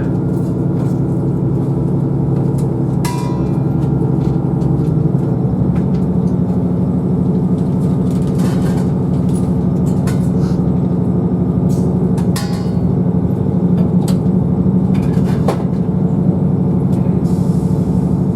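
Diesel multiple unit's underfloor engine running under power as the train pulls away, its note stepping up in pitch about five seconds in, with occasional short clicks from the running gear.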